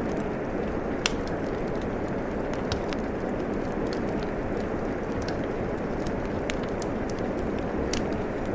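Steady rain with a wood fire crackling over it: scattered sharp pops and snaps, the sharpest about a second in.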